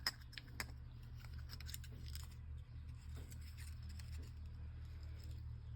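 Light clicks and ticks of the just-removed piston and connecting rod from a 196cc clone engine being handled, most of them in the first couple of seconds, over a steady low hum.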